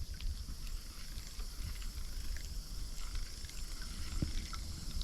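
Water lapping and trickling against a kayak hull, with scattered small ticks and one low knock about four seconds in, over a faint steady high hiss.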